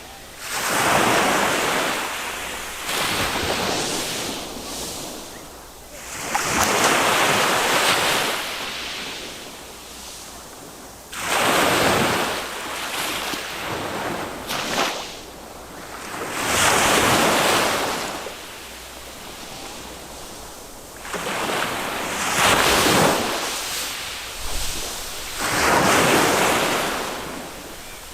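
Small waves from a calm Mediterranean sea breaking on a sand beach and washing back, one every five seconds or so, each swell of surf rising and then fading away.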